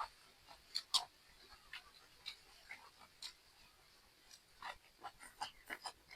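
Someone eating crunchy stir-fried asparagus and octopus: soft chewing with scattered sharp clicks of utensils on a dish. The clicks are strongest at the very start and about a second in, and come more often towards the end.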